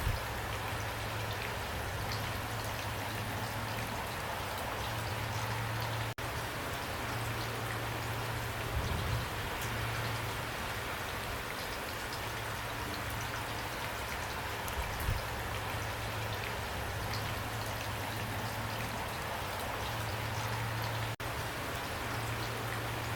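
Heavy rain pouring steadily, with individual drops ticking on a hard surface. The sound cuts out for an instant twice, about 6 and 21 seconds in.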